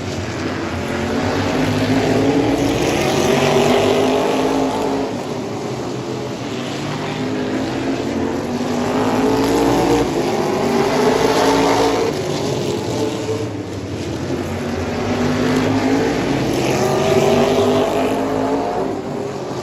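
Race car engine at speed, its pitch rising as it accelerates and dropping as it lifts off, about three times, in the rhythm of laps on an oval track.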